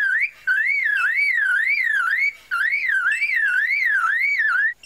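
Superb lyrebird mimicking a car alarm: a whistled warble rising and falling about twice a second, in runs broken by brief pauses.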